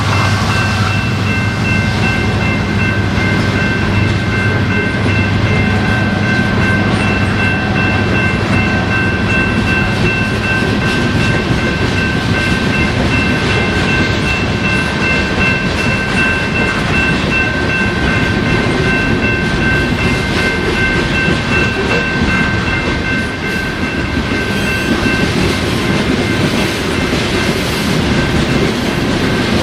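A train passing close by: a deep locomotive rumble in the first several seconds, then rail cars rolling past with a clickety-clack. A steady high-pitched ringing runs over it and stops a few seconds before the end.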